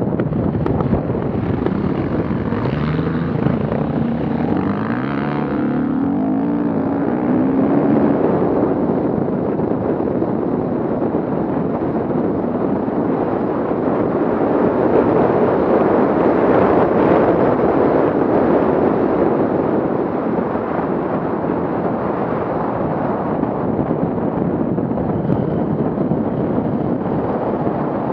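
Off-road vehicle engine revving, its pitch rising and falling for the first several seconds, then a steady engine noise that swells and fades as it labours on.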